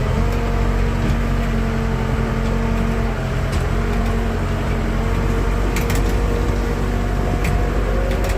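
Backhoe's diesel engine running steadily, with a few light clicks or rattles near the end.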